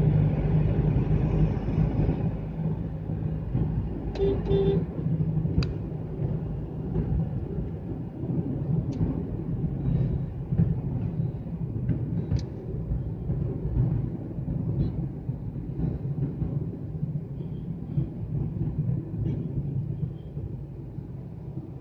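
Road and engine noise of a Hyundai Xcent being driven in traffic: a steady low rumble. A vehicle horn toots briefly about four seconds in.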